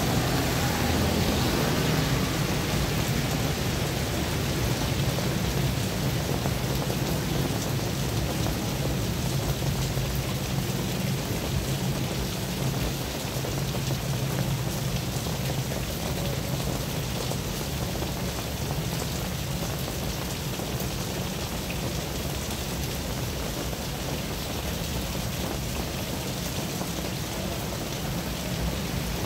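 Steady rain falling on a wet road and pavement, an even hiss throughout. In the first few seconds a passing vehicle's tyres swish on the wet asphalt.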